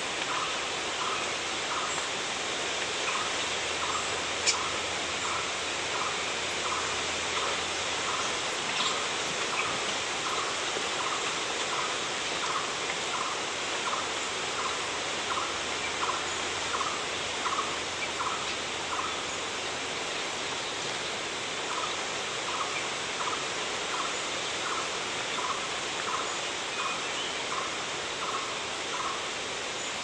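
A bird calling a long series of short, evenly spaced notes, about two a second, pausing briefly twice, over a steady hiss. A single sharp click sounds about four and a half seconds in.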